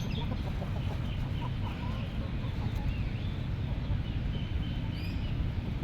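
Birds calling in short chirps over a steady low outdoor rumble.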